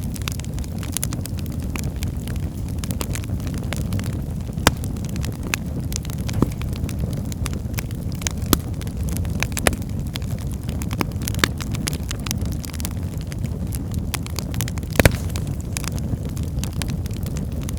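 Wood fire burning in a fireplace: a steady low rumble of flames with irregular crackles and pops from the burning firewood, the loudest pop about fifteen seconds in.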